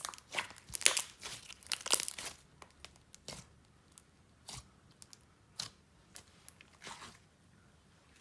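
Layered clear and jelly slime being stretched and squeezed by hand. It gives a run of crackly, tearing pops over the first two and a half seconds, then scattered single pops.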